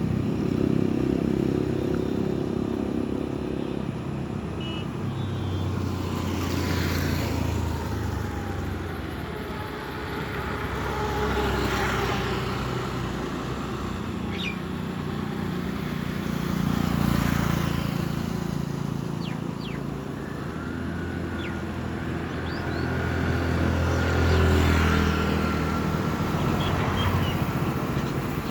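Road traffic: motor vehicles passing one after another, the engine noise swelling and fading with each pass, with a few faint bird chirps.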